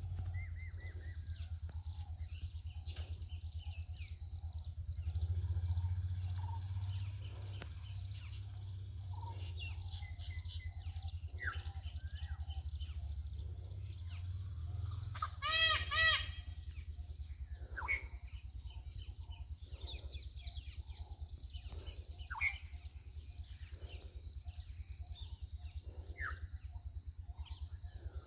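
Peacock giving two loud calls in quick succession about sixteen seconds in, over scattered short chirps of other birds and a steady low rumble.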